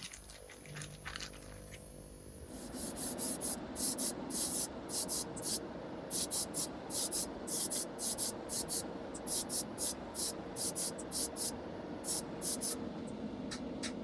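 Oven cleaner being sprayed onto small metal toy wheel hubs in a long run of short, quick hissing squirts, a few a second, starting a couple of seconds in and stopping near the end.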